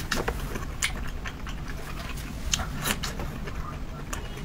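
Close-miked chewing and lip smacking: irregular wet mouth clicks over a low steady background hum.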